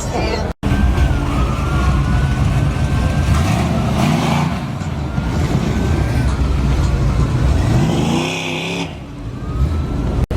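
Car engine running loudly with a deep rumble, revving up in a rising sweep about two-thirds of the way through. The sound cuts off abruptly for an instant near the start and again near the end.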